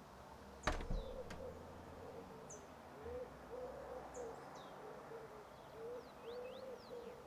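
A pigeon cooing in a run of short low notes, about two a second, with small birds chirping faintly above. There is a sharp knock about a second in.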